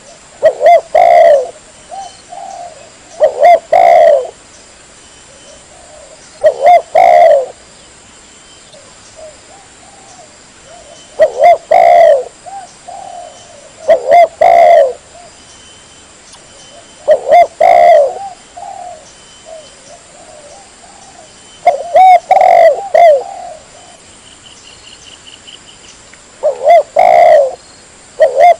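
Spotted dove (tekukur) singing its cooing song, a short phrase of several low coos repeated about every three to five seconds, eight phrases in all.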